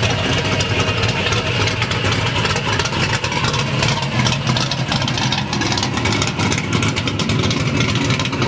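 A vehicle engine idling loudly and steadily.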